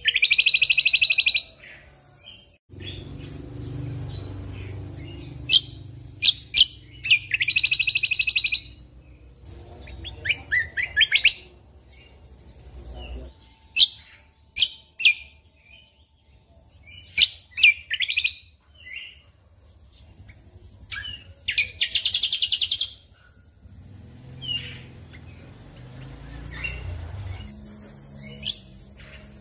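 Cucak kombo (kecial kombok) songbird singing in loud bursts: short sharp notes alternate with dense rattling trills, which come four or five times. A low background rumble runs under parts of the song.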